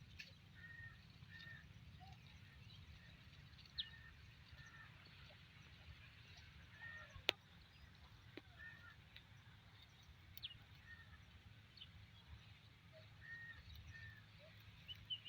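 Quiet outdoor ambience with a bird giving short, faint calls every few seconds, often two notes in quick succession, over a low steady rumble. A sharp click stands out about seven seconds in.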